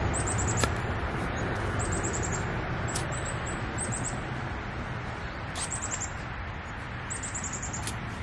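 A small bird's high, quick chirping trills of a few falling notes, repeated every second or two, over a steady background rumble. A few faint sharp clicks come through now and then.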